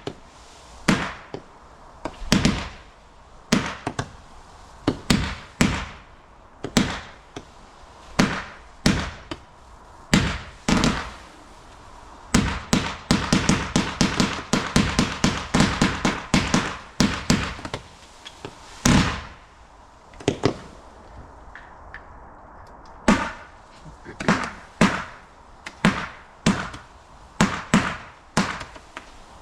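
Garden fireworks going off: a steady series of sharp bangs about a second apart, with a quick run of rapid-fire shots in the middle, then single bangs again.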